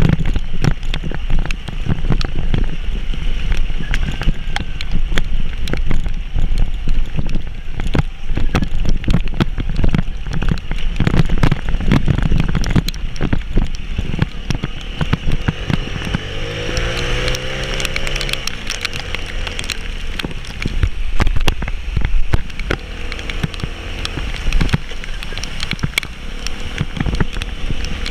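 Heavy rain pattering and crackling on a vehicle and the microphone while the vehicle's engine runs underneath with a low rumble; the engine's pitch rises and falls briefly about two-thirds of the way through.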